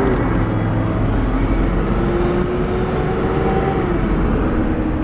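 Turbocharged car engine running under boost while driving: a steady drone with a faint whine that slowly rises and falls.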